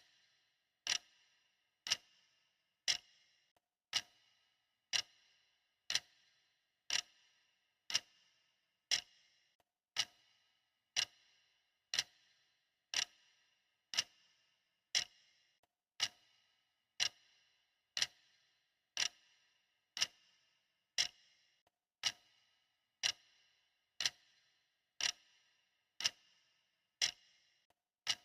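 Clock ticking steadily at about one tick a second, each tick a sharp click with a short ringing tail.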